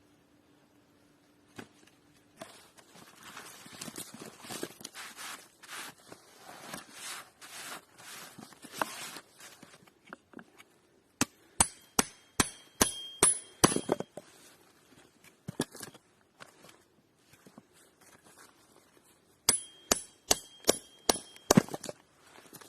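Rustling and scraping for several seconds, then two quick runs of sharp strikes, about four a second, each with a slight metallic ring.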